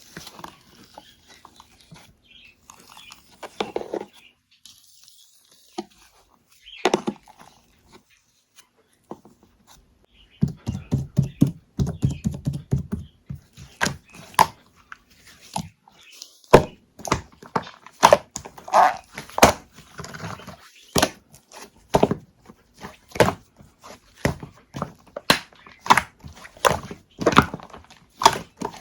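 Irregular knocks, taps and thumps in a small room, sparse at first, then a dense run of low thuds about ten seconds in, followed by frequent sharper knocks.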